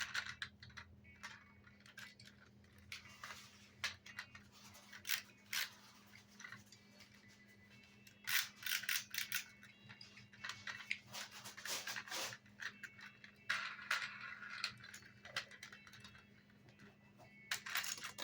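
Plastic toy vehicles rattling and clicking in irregular bursts as they are handled, over a steady low hum.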